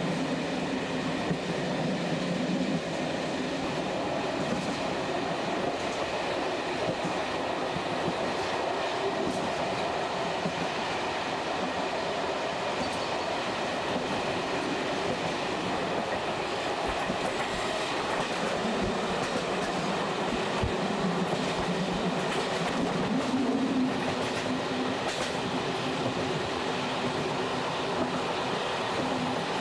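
Passenger train running along the line, heard from aboard: a steady rumble of wheels on rail with a few scattered knocks over the track.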